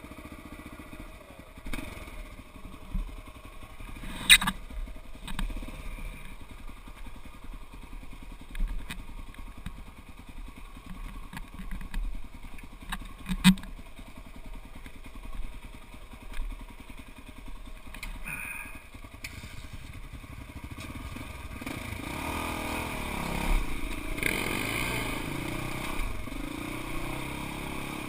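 Off-road vehicle's engine running at low speed with a couple of sharp knocks and clatters, then picking up and revving, its pitch rising and falling, from about twenty seconds in.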